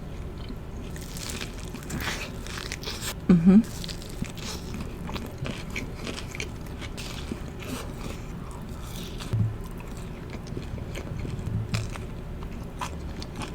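Close-miked chewing and biting of a mini sandwich: soft crunches and wet mouth sounds going on without pause, with one louder moment about three and a half seconds in.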